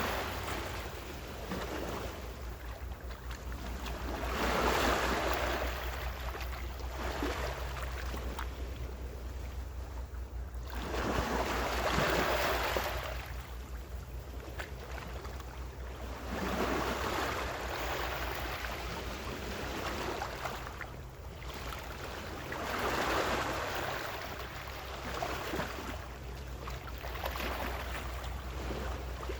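Gentle ocean waves breaking and washing on the shore, each wave swelling and fading every five to seven seconds over a steady low rumble.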